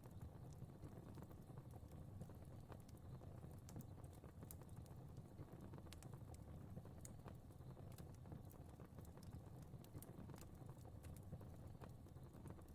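Fire crackling faintly: irregular sharp pops and ticks over a low, steady rumble of flames.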